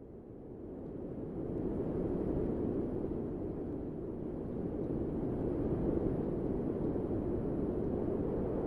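Low wind rushing, fading in over the first couple of seconds, then blowing steadily with gentle swells.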